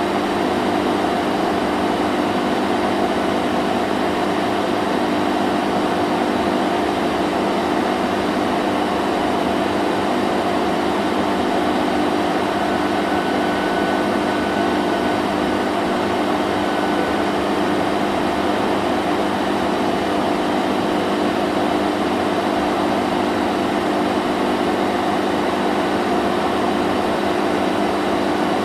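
Vacuum cleaner running continuously, a steady, unchanging motor drone with a low hum.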